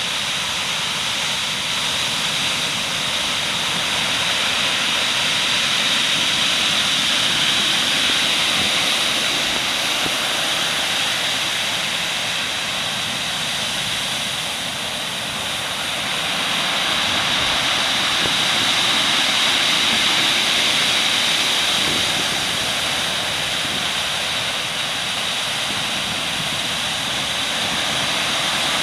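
Heavy typhoon surf on the Pacific shore, a continuous roar of breaking waves that swells and eases over several seconds.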